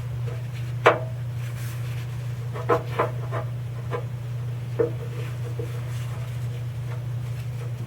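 A few light clicks and knocks of tools or parts being handled, two of them close together near the middle, over a steady low hum.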